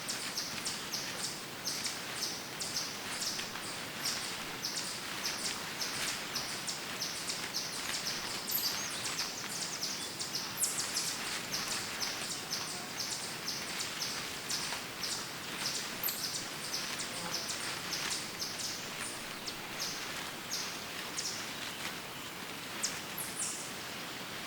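Woodland birds chirping, with short high notes repeating several times a second, over a steady rustle of footsteps crunching through dry fallen leaves.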